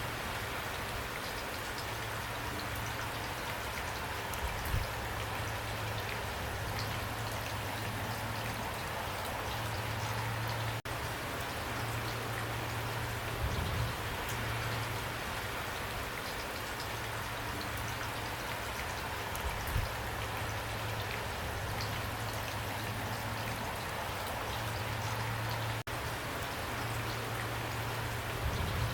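Pouring rain falling steadily, a dense patter of drops on surfaces, with a few louder single drops striking now and then.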